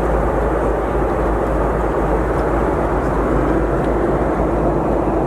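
Steady cabin noise of an airliner in flight: an even, unbroken rush of engine and airflow noise heard from inside the passenger cabin.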